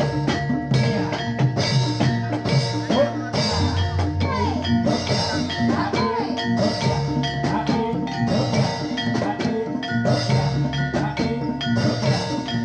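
Live gamelan accompaniment for a Jathilan dance: metal mallet instruments ringing over kendang drums in a steady, dense rhythm.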